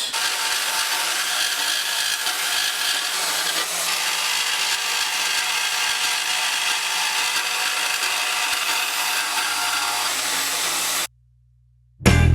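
Wen portable bandsaw running steadily and cutting out a steel knife blank, a continuous whirring saw noise that stops abruptly about eleven seconds in.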